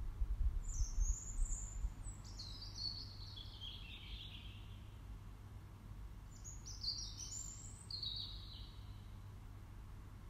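A songbird singing two phrases, each a run of high notes falling steadily in pitch over a few seconds, with a low rumble in the first two seconds.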